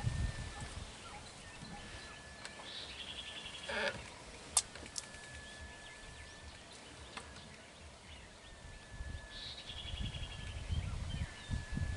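Birds calling in the background: a high, steady whistle repeated every few seconds and two short, fast trills. A single sharp click comes about four and a half seconds in, and a low rumble builds near the end.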